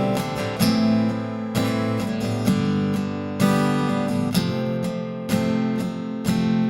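Gibson G-Bird steel-string acoustic guitar, plugged in, strummed in chords with a fresh strike about once a second, each chord ringing on into the next.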